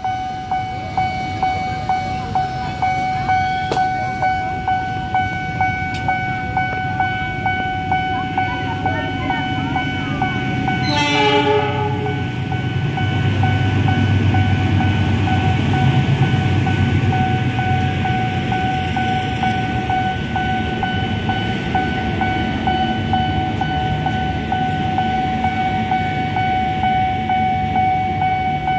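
Level-crossing warning bell ringing continuously, striking a little over once a second. About eleven seconds in a KAI diesel locomotive sounds one short horn blast, then its engine runs loudly past the crossing, followed by the steady running noise of its passenger coaches.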